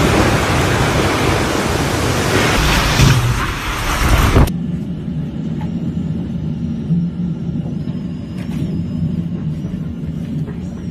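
Loud, even rushing noise of hurricane wind, cutting off abruptly about four and a half seconds in, followed by a quieter steady low rumble.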